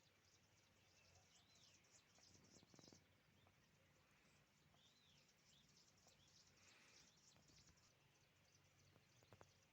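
Faint bird calls: short chirps that rise and fall in pitch, repeated every few seconds, with bits of higher twittering, over a quiet background hiss.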